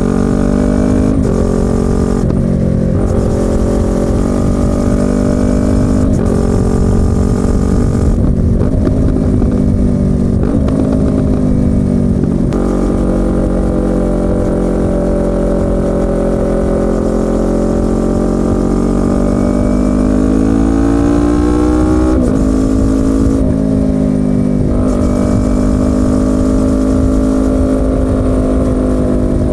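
Yamaha YZF-R25's 249 cc parallel-twin exhaust while riding. The note rises under throttle and drops at a run of quick gear changes in the first half, then holds a long cruise that dips and climbs again near the end.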